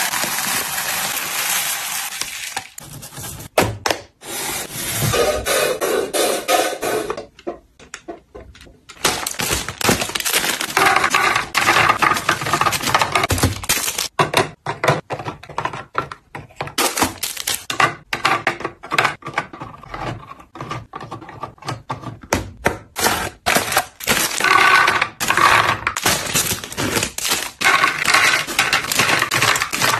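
Fridge-restocking handling sounds: rapid clicks, knocks and clinks of containers and packaged food being picked up and set down, with stretches of dense rattling and clattering.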